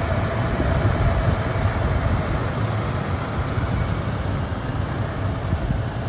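Heavy truck's diesel engine idling with a steady, rough low rumble.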